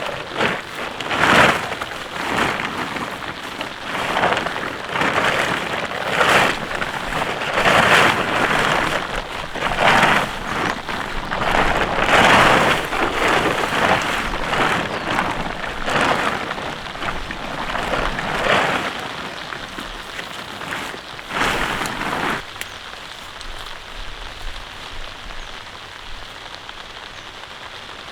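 Light rain falling, overlaid with loud rustling swells every second or two that stop about 22 seconds in, leaving only the fainter steady patter of the rain.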